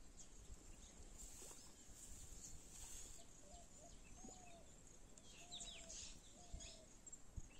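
Quiet outdoor background with birds calling: a run of short, soft low notes through the middle and a few thin high chirps.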